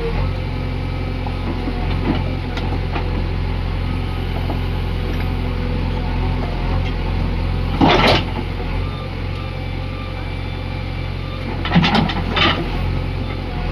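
Diesel earthmoving machinery engine running steadily, with a loud short sound about eight seconds in and a few more near the end.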